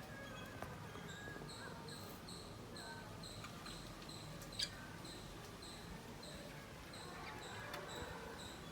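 Small birds chirping faintly: a steady run of short high-pitched chirps, about three a second, over soft warbling chatter typical of budgerigars, with a single sharp click about halfway through.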